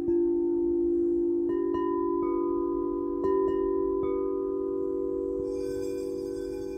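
Singing bowls ringing in a sustained low hum, with a handful of bright chime notes struck over it, each ringing on after the strike.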